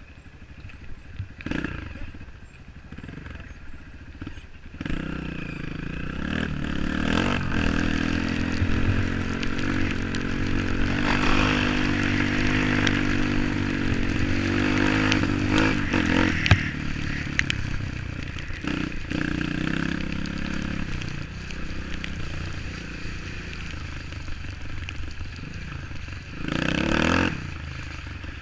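Off-road vehicle engine running: the revs rise about five seconds in, are held high through the middle, then ease, with a short rev burst near the end.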